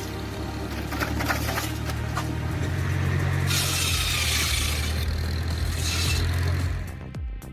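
McCormick W-4 tractor's four-cylinder engine running steadily under load, driving a cedar shingle mill saw. Over the engine, a loud hissing rush of the saw cutting through a cedar block comes about halfway through. The sound breaks off abruptly near the end.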